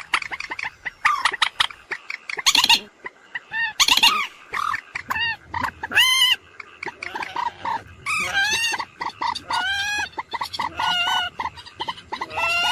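Common moorhen calling: a dense run of short, sharp notes and clicks mixed with longer pitched calls that bend up and down or rise, several overlapping.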